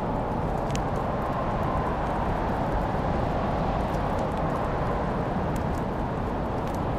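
Wood fire crackling, a few sharp pops scattered over a steady rushing noise.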